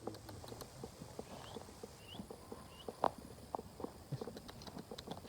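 Faint, irregular crunching steps on stony ground. A small bird gives three short rising chirps in the middle.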